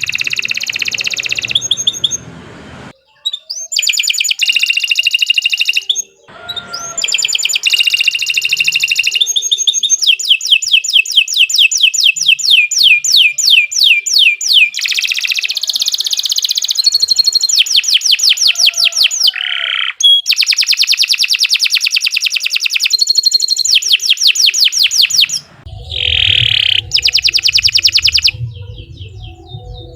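Domestic canary singing a long, loud song: phrases of fast repeated-note trills and rolls, broken by short pauses.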